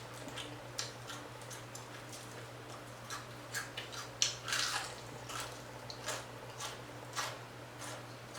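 A person chewing and biting into crispy fried fish close to the microphone: scattered soft crunches and wet mouth clicks over a steady low hum.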